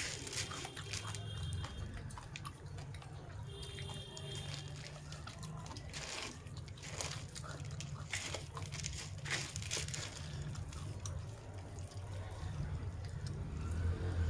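Wet eating sounds: chewing and mouth clicks of someone eating a saucy meal, a scatter of small wet ticks over a steady low hum.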